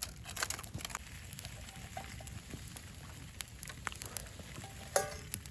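Open campfire crackling and hissing, with irregular sharp pops and a louder burst of crackles about five seconds in.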